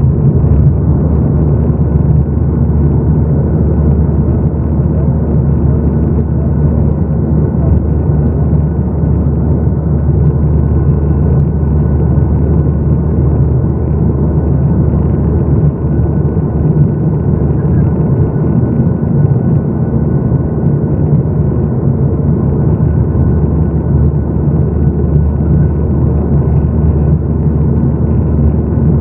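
Boeing 737-800 jet engines and airflow rumbling steadily, heard inside the passenger cabin from a window seat over the wing, with a faint steady whine.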